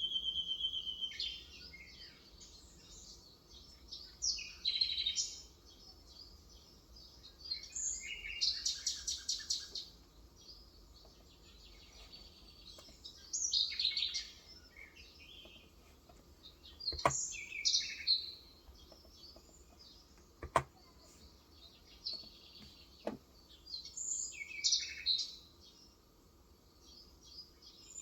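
Birds chirping and calling in short, varied bursts of high chirps and trills, with a few sharp clicks among them.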